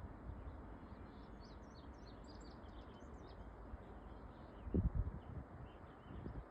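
Small birds chirping in quick, short, high calls over a steady low rumble, with one brief low thump about five seconds in.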